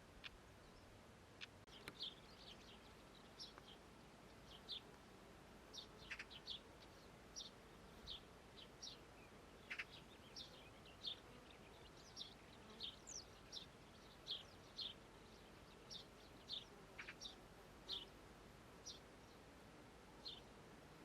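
Meadow ambience: a small bird giving short, high chirps over and over at an uneven pace, faint against a soft steady background hiss.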